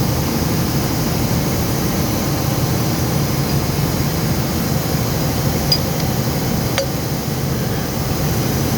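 Steady mechanical drone of running machinery, with two faint metal clicks a second apart about two-thirds of the way through.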